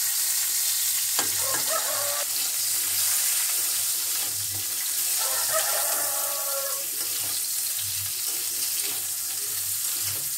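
Vegetable stalks sizzling steadily in hot oil in a metal kadai while a spatula stirs them. Twice a short pitched call sounds in the background.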